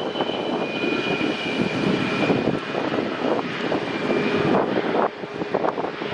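Jet airliner's engines running loud just after touchdown, a rushing roar with a steady high whine over it, and wind buffeting the microphone.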